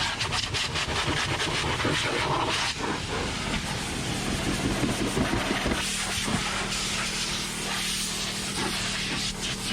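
Electric motorcycle blower running, a steady rush of air with a constant motor hum underneath, blasting loose debris and pet hair out of a car interior's seams and crevices.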